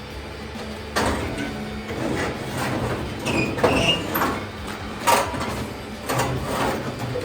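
Clattering, knocking and scraping of parts being handled and moved, starting suddenly about a second in, with a few short squeaks in the middle.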